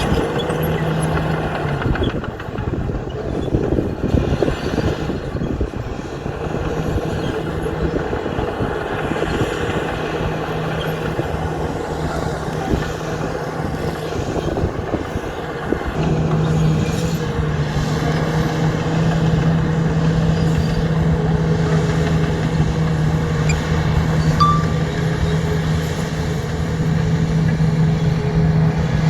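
Heavy earthmoving machinery's diesel engine running under steady load, a continuous low drone that grows louder about halfway through.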